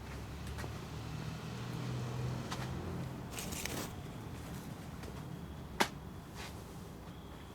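Fire of cardboard and wood crackling in a home-built barrel rocket stove, with scattered clicks, a short hiss and one sharp snap about six seconds in, over a low rumble during the first half.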